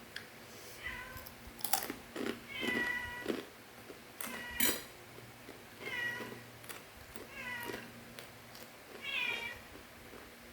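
A cat meowing repeatedly: about six short, high-pitched meows, each falling slightly in pitch, with a few sharp crunching clicks between them.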